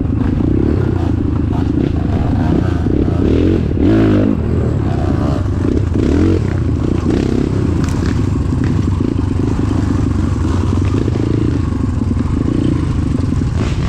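Motorcycle engine running steadily under way, with a few short knocks.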